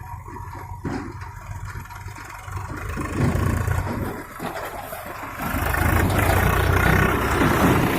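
Heavy diesel engine running and revving up, getting louder about three seconds in and again past the halfway point, with a rushing noise over it in the louder stretch.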